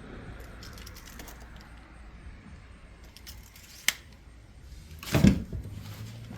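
Tools and material being handled on a workbench or floor: light clinks and rattles, a sharp click about four seconds in, and a short heavy thump about five seconds in.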